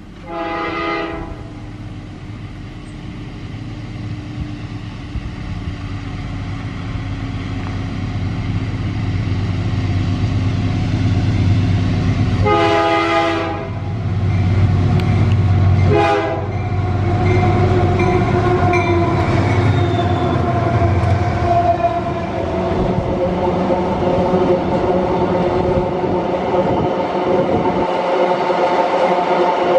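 Diesel freight locomotive's multi-tone horn sounding three times as the train approaches: a short blast at the start, a longer one about 12 seconds in and a short one about 16 seconds in. Engine and rail noise grow steadily louder, then run on steadily with wheel clatter as the train passes.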